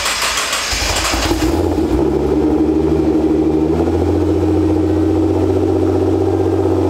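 Nissan GT-R's twin-turbo 3.8-litre V6 cold-starting through a new full titanium exhaust. It catches and flares for the first second or so, then settles into a steady idle. The sound is not too loud, with a good tone to it.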